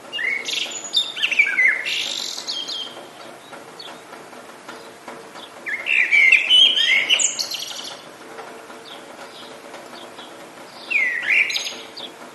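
A songbird singing three loud phrases of quick, sweeping whistled notes, about four to five seconds apart, over a steady low hiss.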